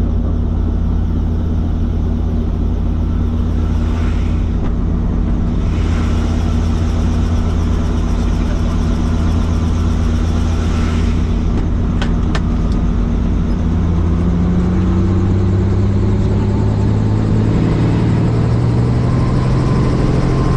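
Helicopter engine and rotor running with a steady low drone. About fourteen seconds in, the pitch rises and then holds higher as the rotor speeds up.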